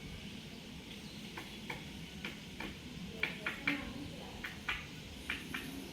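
Indian peafowl pecking grain, its beak tapping the ground in a run of sharp, irregular clicks, a few each second.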